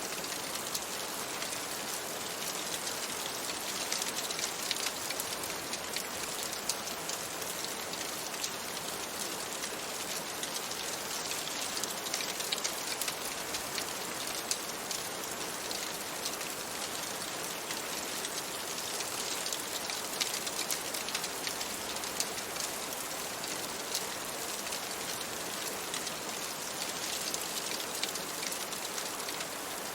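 Steady rain on a window, an even hiss, with many small sharp crackles and ticks throughout from a fireplace fire mixed in.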